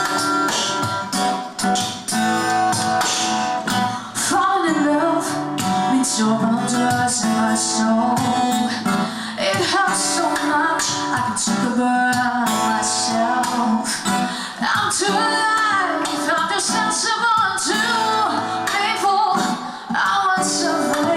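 Live band performance: an acoustic guitar strummed in a steady rhythm, with a woman singing the song's melody over it from about four seconds in.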